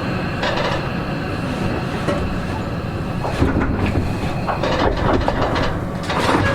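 Seibu 40000 series electric train heard from inside the car, running slowly into its stop: a steady rumble with wheels clacking and knocking over rail joints and points.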